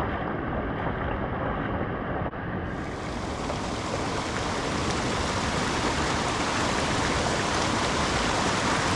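Rushing water of a mountain stream: a steady, noisy rush. About two and a half seconds in it changes suddenly to a brighter, slightly louder rush.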